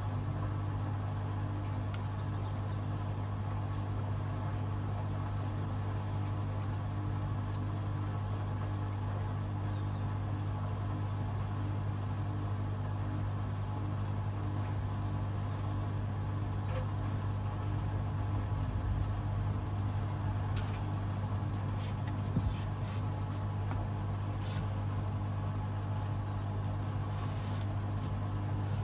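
Hoover DXOA610AHFN-80 washing machine running mid-cycle with a steady low hum, a few faint ticks in the second half.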